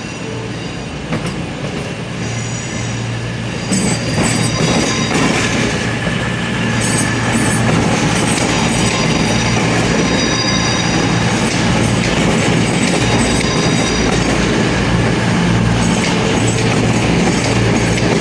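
CrossCountry diesel passenger train arriving at a station platform: a steady low engine drone with the wheels squealing in thin, high, on-and-off tones. It gets louder about 4 seconds in as the train draws closer.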